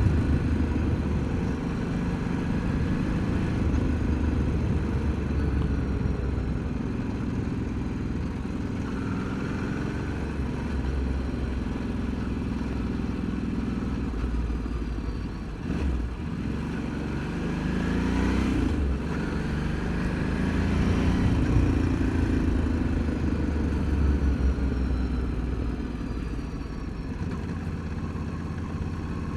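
Ducati Multistrada motorcycle engine running as the bike is ridden at town speeds, its pitch rising and falling with the throttle. There is a short drop about halfway through, then the pitch climbs as it pulls away.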